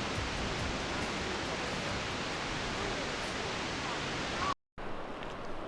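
Steady rushing of Wallaman Falls, a tall single-drop waterfall, as a constant even noise. It cuts off abruptly about four and a half seconds in and gives way to much quieter outdoor ambience.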